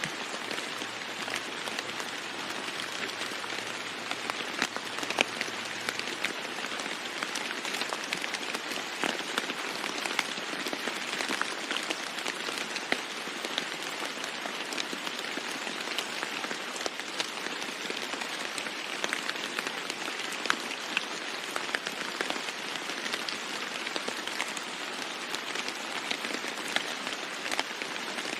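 Steady rain falling on a roof, with many separate drop hits ticking through the even hiss.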